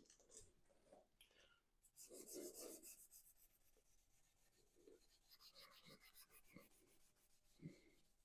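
Faint scrubbing of a cleaning pad on engine metal, in short quick rubbing strokes.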